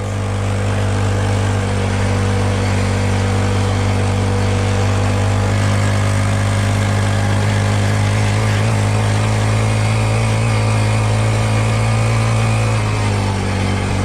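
Small dirt bike engine running steadily at an even pitch that shifts slightly near the end.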